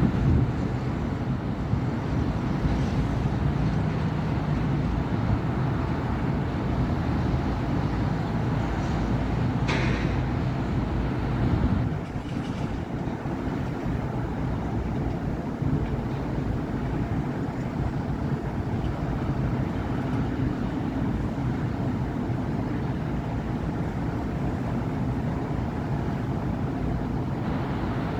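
Steady city road traffic: a continuous rumble of car and bus engines and tyres on a busy avenue. A short, sharp higher-pitched sound comes about ten seconds in, and the traffic eases a little soon after.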